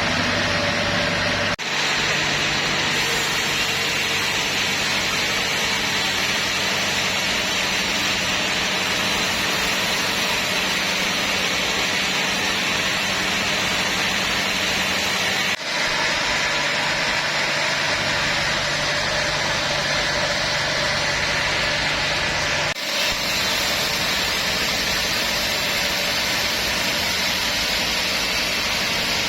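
Sawmill machinery running steadily: a low engine hum under a broad hiss. The sound changes abruptly three times, about a second and a half in, around fifteen seconds and around twenty-three seconds.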